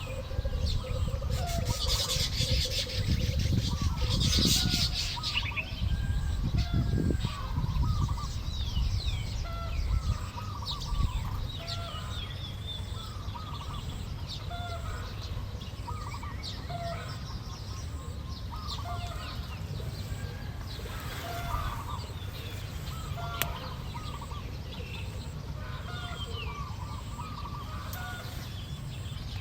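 Weaver birds chattering: many short chirps and chatter notes, with a low rumbling and rustling noise under them in the first third.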